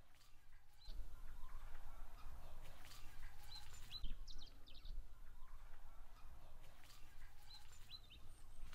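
Small birds chirping in short high calls, in two clusters about four seconds apart, over a low rumble and light rustling.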